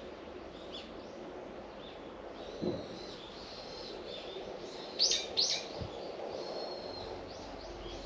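Birds chirping and calling, with two loud, quick downward-sweeping calls about five seconds in and shorter chirps repeating around them. A soft low thump comes just before three seconds, over steady faint outdoor background noise.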